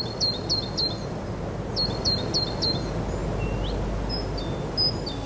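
A bird chirping in two quick runs of four chirps, then a few scattered single calls, over a steady low background rumble.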